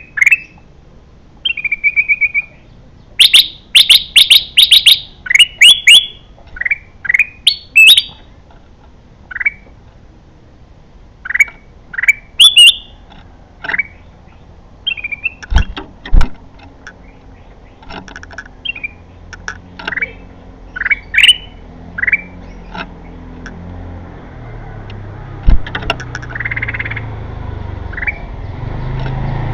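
A bulbul (kutilang) calling: short, clear chirps repeated every second or so, with a quick run of rapid notes a few seconds in. Two sharp clicks sound about halfway through, and a low rumble builds near the end.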